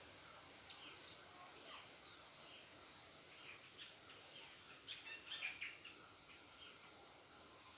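Near silence with faint, scattered bird chirps, a short cluster of them about five seconds in.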